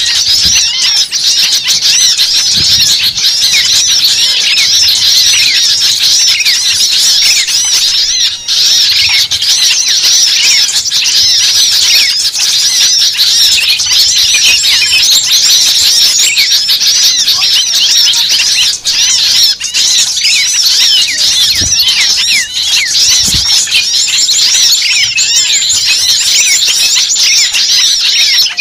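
Dense, noisy chorus of many small birds chirping and calling rapidly over one another, the agitated mixed-flock commotion used as a bird-lure recording to draw birds in.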